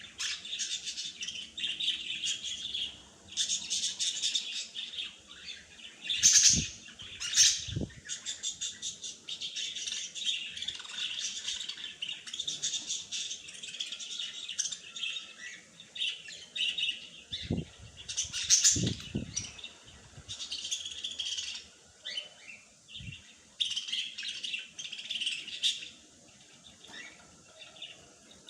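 Small songbirds chirping and twittering rapidly and continuously, several at once. A few short low thumps break in: two close together about a quarter of the way in, two more about two thirds in, and one shortly after.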